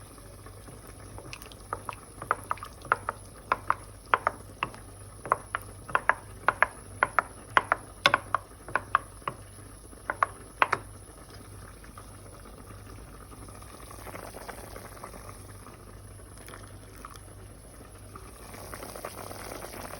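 A spoon beating a yogurt, egg and flour thickener in a bowl, clicking sharply against the bowl's side about twice a second. The clicks stop about halfway through, leaving only a soft, steady noise.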